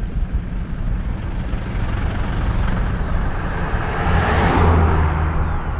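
A motor vehicle passing close by: its engine and tyres swell to a peak about four and a half seconds in, then fade. Steady wind rumble on a helmet-mounted camera microphone runs underneath.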